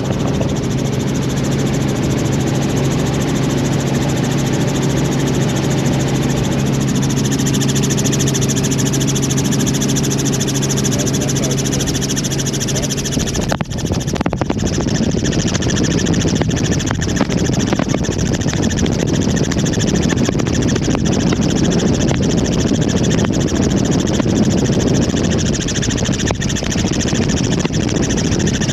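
Helicopter running, heard close up: a steady engine hum with a low drone. About halfway through it breaks off briefly and gives way to a rougher, even rushing noise.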